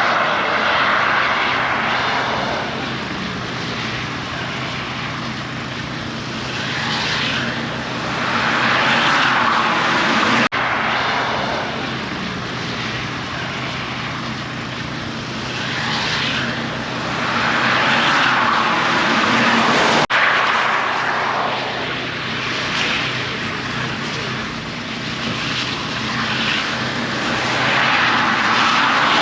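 A car driving: a steady engine drone under rushing road and wind noise that swells and fades in waves, with two brief dropouts.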